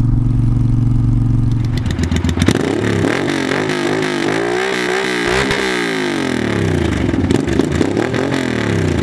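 An 865cc parallel-twin motorcycle engine of a Triumph Speedmaster runs steadily at cruising speed for about two seconds. Then motorcycle engines rev over and over, their pitch rising and falling in overlapping sweeps.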